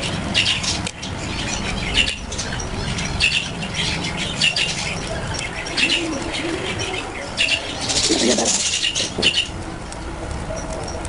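Pet budgerigars chirping and chattering in short, irregular bursts, over a steady low hum.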